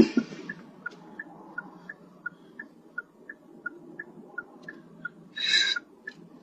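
Car turn-signal indicator ticking steadily inside the cabin, an even tick-tock at nearly three clicks a second. A loud knock comes right at the start, and a short hiss about five and a half seconds in.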